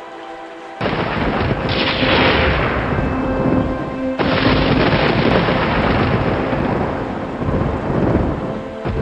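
Thunderstorm: two sudden thunderclaps, about a second in and about four seconds in, each rolling off into rumbling over steady rain. Soft music with held tones plays underneath.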